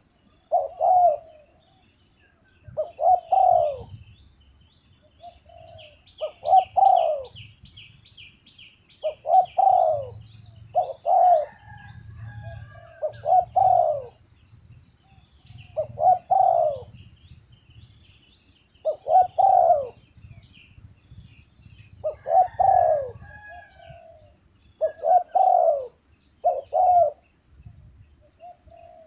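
Spotted dove cooing, a short coo phrase repeated every two to three seconds, with faint chirping of smaller birds behind it.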